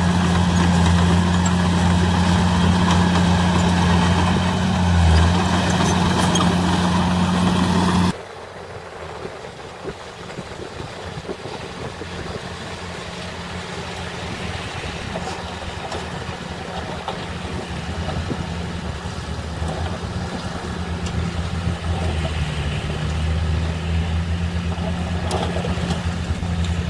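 Heavy diesel engine of construction machinery running loud and steady, cutting off abruptly about eight seconds in to a quieter engine sound that slowly builds in loudness.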